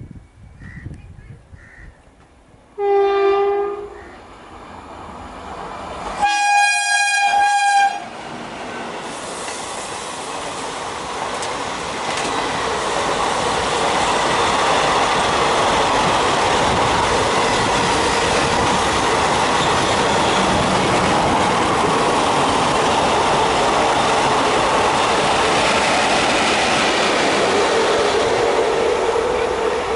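WAM4 electric locomotive horn sounds twice, a short lower note about three seconds in and then a longer, higher note a few seconds later. The express then passes at speed, with a steady, loud rush of wheel and track noise that lasts over twenty seconds.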